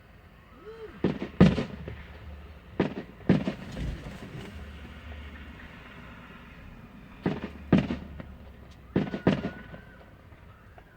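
Fireworks display: sharp bangs of aerial shells bursting in clusters, several in the first four seconds, a pair about seven seconds in and another pair near nine seconds, with a low rumble between.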